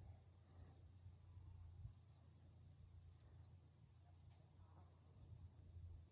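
Near silence: faint outdoor ambience with a low hum and a scatter of soft, short high chirps repeating every half second or so.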